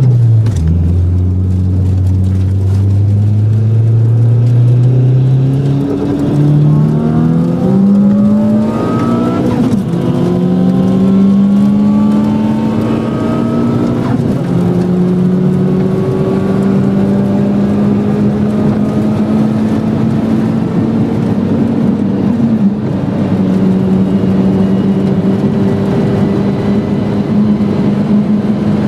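Car engine accelerating hard through the gears, heard from inside the cabin. Its pitch climbs and drops back at each upshift, about four times in the first fourteen seconds, then it runs on at a steady pitch at speed.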